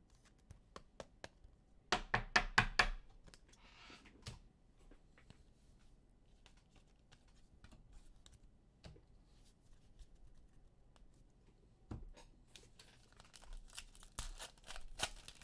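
Foil trading-card pack wrappers being torn open and crinkled, with cards clicking against one another as they are handled. The loudest crackling tear comes about two seconds in, with another run of crinkling near the end.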